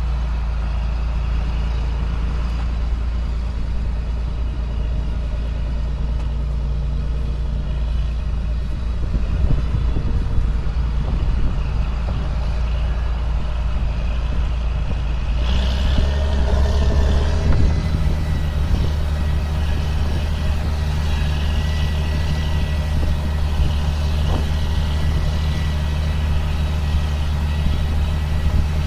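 2005 John Deere self-propelled sprayer's diesel engine running steadily under way. About halfway through its note steps up and a higher hiss joins in and carries on.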